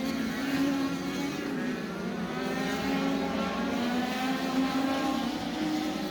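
INEX Legends race car engine running at high revs, its pitch rising and falling a little as the throttle changes.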